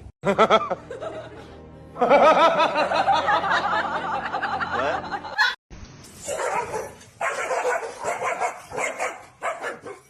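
A dog barking among laughter, over music, with a run of short repeated barks or laughs from about six seconds in.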